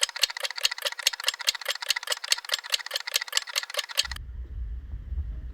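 A fast, even rattle of clicks, about seven a second, that stops abruptly about four seconds in and gives way to a low rumble.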